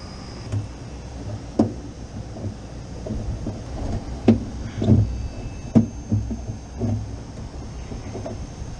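About six irregular knocks and clunks from handling a rooftop air-conditioning unit, over a steady low rumble; the loudest fall around the middle.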